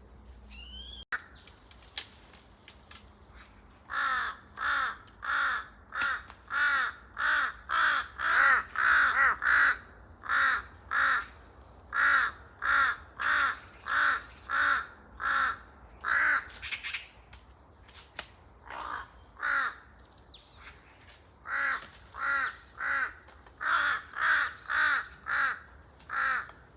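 Large-billed crows cawing: long runs of harsh, evenly spaced caws, about one and a half a second, starting a few seconds in, with a short break around the middle before they resume.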